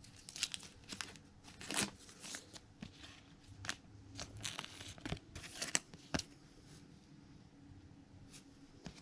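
Trading cards being handled and flipped through: a run of quick papery slides and flicks of card stock, thinning out over the last few seconds.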